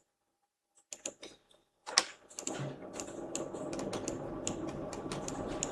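Computer keyboard clicking. A few light taps come about a second in, then a sharp click, then a run of rapid clicks over a rising background noise from about two seconds in.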